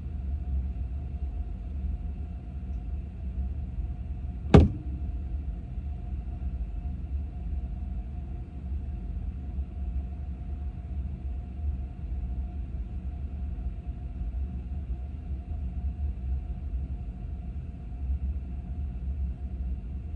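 Steady low rumble of a car running, with a faint steady hum over it and one sharp knock about four and a half seconds in.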